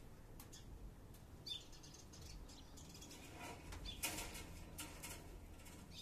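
Faint outdoor ambience with a few short, high bird chirps, one about a second and a half in and another at the end, and a cluster of brief crackling rustles around the middle.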